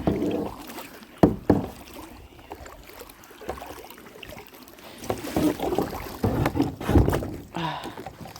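Knocks, bumps and scrapes of a kayak as someone climbs into it, with sharp knocks at the start and about a second and a half in. A busier stretch of bumping and shuffling comes near the end.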